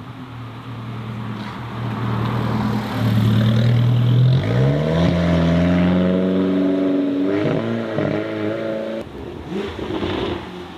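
A car engine accelerating hard: it runs low and steady, then about four seconds in its pitch climbs sharply and holds high. There is a brief dip and recovery near the middle, the engine drops off about nine seconds in, and a short second rev follows near the end.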